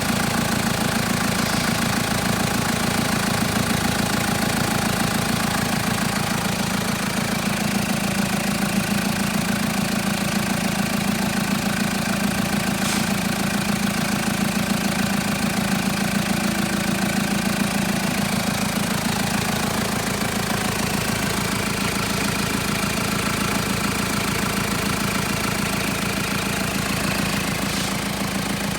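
Mitsubishi Triton's 3.2-litre four-cylinder diesel engine idling steadily, with no revving.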